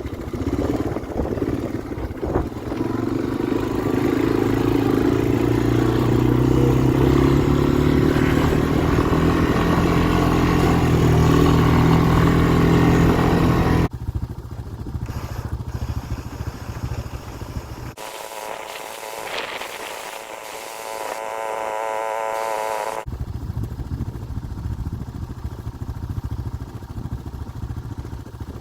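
Snowmobile engine running with a rough, uneven note, its pitch creeping slowly upward over the first dozen seconds, while it smokes heavily from being run indoors. About fourteen seconds in the sound drops abruptly to a quieter level, with a stretch of wavering higher hum before a lower steady running sound returns.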